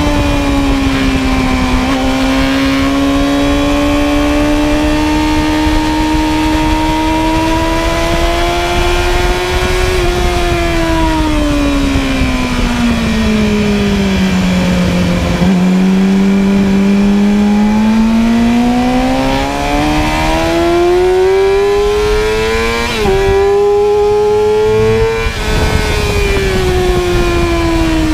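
Inline-four supersport motorcycle engine at track speed, its pitch sinking slowly as the rider rolls off, then climbing again under throttle. Late on there is a quick drop in pitch at an upshift, and then the engine note falls away again.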